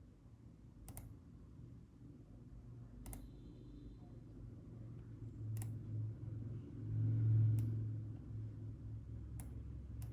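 Computer mouse clicking, single sharp clicks a second or two apart, about six in all. Beneath them runs a low hum that swells for about a second around seven seconds in, the loudest part.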